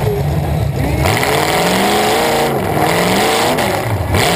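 Demolition derby car's engine, exhausting through open upright stacks, revving up about a second in and rising and falling under throttle, with brief dips in revs near the middle and near the end.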